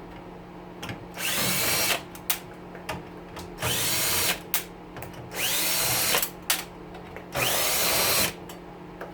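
Power drill run in four short bursts, each winding up and back down, with small clicks and knocks between them. A steady low hum from a room fan runs underneath.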